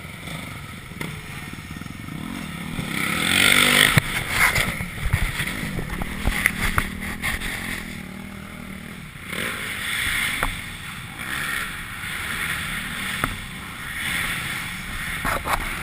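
Dirt bike engine running and revving unevenly, with rushing wind noise on the microphone.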